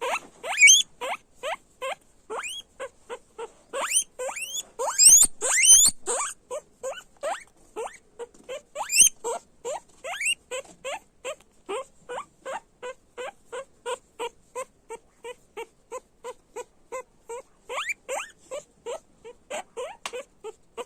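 Guinea pig squealing loudly, a rapid run of short calls that each rise in pitch, about two to three a second. A few longer, louder squeals come about four to six seconds in and again near nine seconds.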